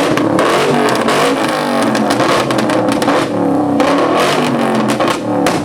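Mustang V8 revved hard again and again in a rev battle, its pitch climbing and falling, with sharp cracks scattered through; really loud.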